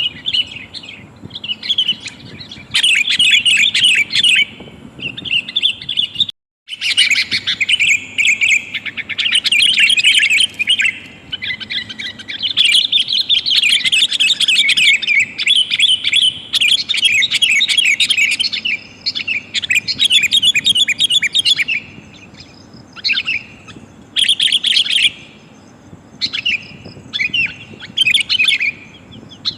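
Sooty-headed bulbul (kutilang) calling: loud, rapid chattering bursts of notes, one after another, sold as a female calling to males. The sound drops out completely for a moment about six seconds in, then the chatter resumes.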